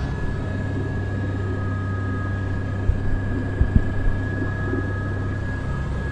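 Airbus AS350 B3 (H125) helicopter in flight, heard from inside the cockpit: the steady drone of the rotor and single turboshaft engine with a steady high whine over it. A few short low knocks come about three to four seconds in.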